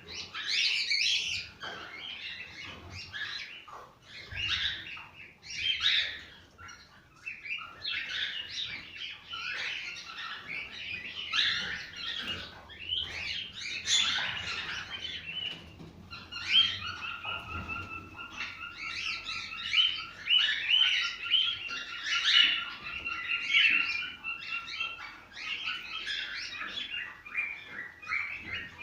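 Cockatiels chirping and whistling without a break, many calls overlapping. From about halfway through, a steady string of evenly repeated whistled notes runs for several seconds under the chirping.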